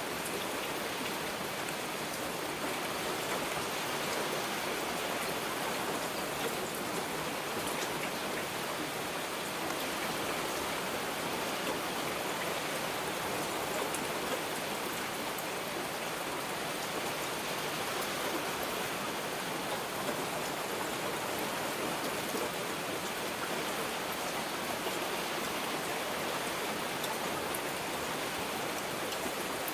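Heavy rain falling steadily: an even hiss with faint ticks of individual drops and no thunder.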